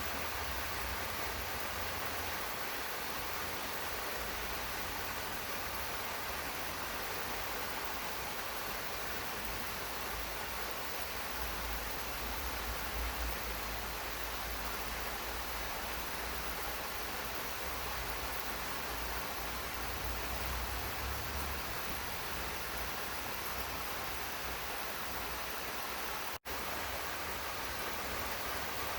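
Steady rain falling, an even hiss with a low rumble underneath. The sound cuts out for a split second near the end and resumes at once.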